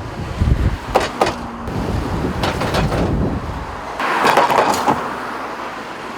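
Road traffic crossing a bridge: a low rumble of tyres and engines, with a couple of sharp knocks about a second in as wheels strike the expansion joints, which drivers say have voids beneath them.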